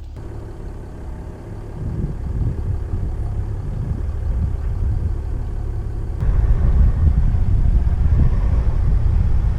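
Land Rover Discovery 4 running with a low rumble, getting louder about two seconds in and again, more sharply, about six seconds in as it drives on.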